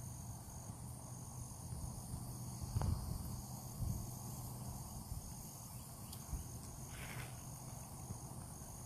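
Insects, crickets or katydids, trilling high in short, evenly broken bursts, over a low rumble, with a single tap about three seconds in.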